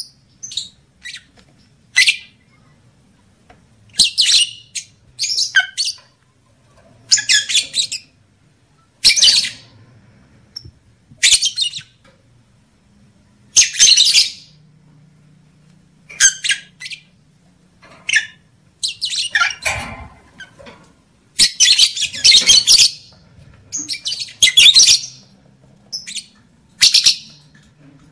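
Lovebird calling in short, high-pitched bursts of chatter with pauses between them. The bursts come closer together over the second half.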